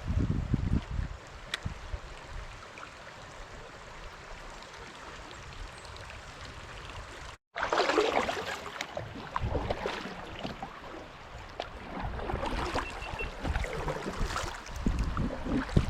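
Creek water running, with low rumbles of wind on the microphone. After a cut about halfway through, the noise gets louder and more uneven.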